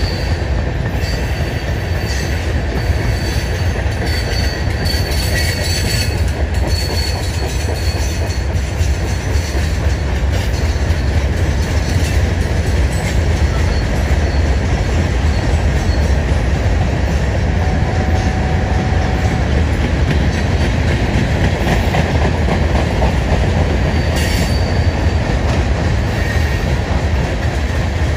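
Mixed freight train's cars rolling past on a curve: a steady, loud rumble of wheels on rail, with thin high-pitched wheel squeals now and then, mostly near the start and again toward the end.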